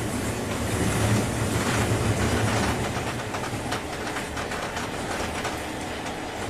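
Interior running noise of a 201 series electric train's motor car at speed: a steady low rumble and hum, with wheels clacking over rail joints in a quick run of clicks in the first half.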